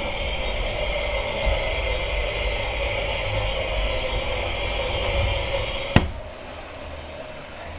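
G gauge model locomotive running on the layout track, a steady motor whine with wheel rumble. About six seconds in, a sharp click and the running sound cuts off, leaving a lower steady hum.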